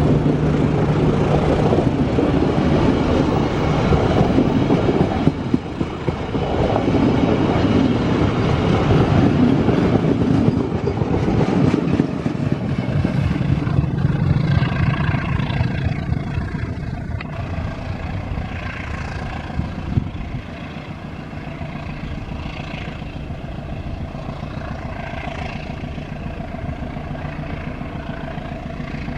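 Passenger train passing on the rails, a rumble and rattle of wheels and carriages. It is loudest for the first twelve seconds or so, then drops to a lower, steadier sound as the train draws away.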